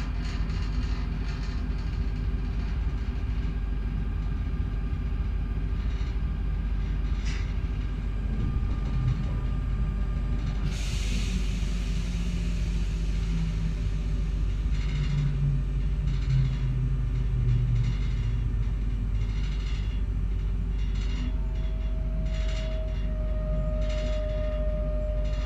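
Z 20500 RER C electric commuter train running, heard from aboard: a steady rumble of the running gear, with a low motor tone sliding down in pitch as the train slows. A short hiss comes about eleven seconds in, and a thin steady tone sounds near the end.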